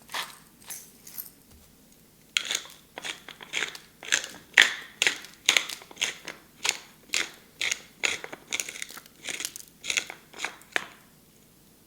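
Repeated crisp crunching strokes, about two a second, with a short pause about a second in; they stop near the end.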